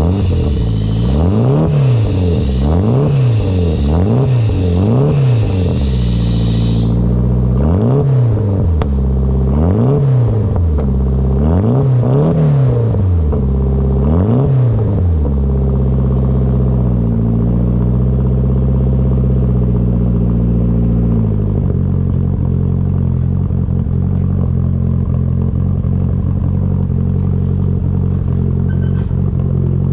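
Nissan SR20DET turbo four-cylinder revved in about a dozen quick blips, roughly one a second, through its newly completed exhaust with a high-flow catalytic converter, then settling to a steady idle that drops a step lower a bit past two-thirds of the way through.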